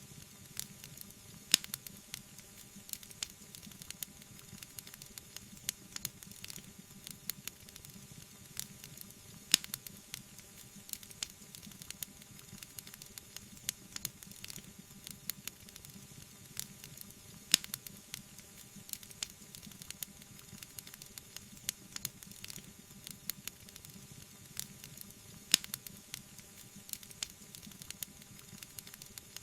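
Wood fire crackling steadily, with a soft hiss and many small snaps, broken by a few loud sharp pops.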